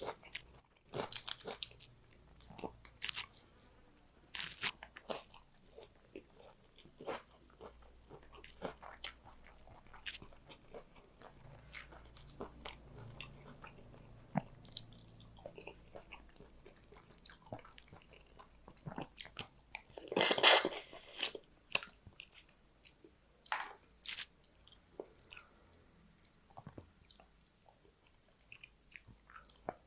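Close-miked eating sounds: chewing with frequent small crunches and wet mouth clicks, from a meal of fish curry, rice and raw onion. One louder, second-long noise comes about twenty seconds in.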